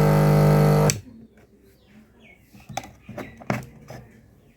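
Electric gas compressor (gas booster pump) motor running with a loud, steady multi-tone hum, switched off about a second in and stopping abruptly. A few faint clicks and knocks follow.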